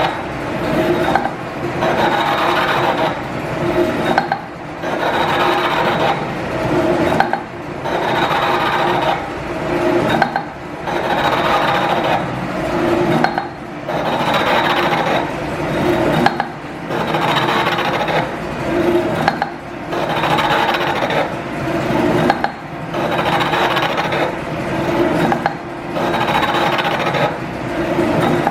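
Machine tool running in a repeating cycle, a scraping, rubbing cut that swells and dips about every three seconds with a smaller dip halfway through, typical of a reciprocating metal-cutting stroke and return.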